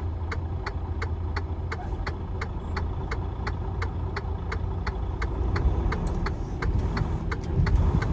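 The diesel engine of a 2020 Freightliner truck, running with a steady low rumble. An even ticking of about two to three clicks a second runs over it, with a few louder low bumps near the end.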